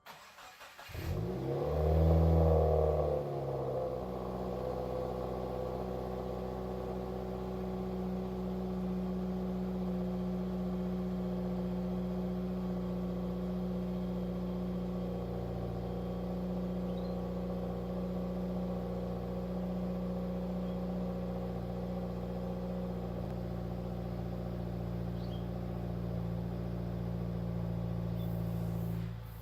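2015 Subaru WRX's turbocharged flat-four starting up, with a short high-idle flare about two seconds in. It then settles into a steady idle through an exhaust with a 2018 STI mid-pipe and resonator and muffler deletes. The sound cuts off suddenly near the end.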